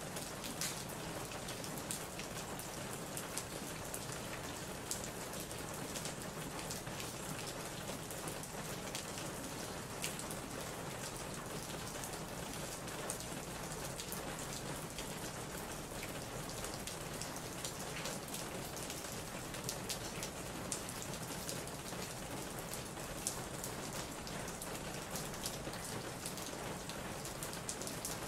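Steady rain falling on a surface: an even hiss scattered with many small, irregular drop ticks.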